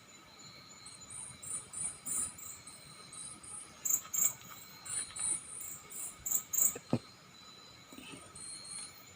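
Crickets chirping at night in quick runs of short, very high-pitched pulses, loudest in the middle, over a steady insect hum at several pitches. A soft thump comes about seven seconds in.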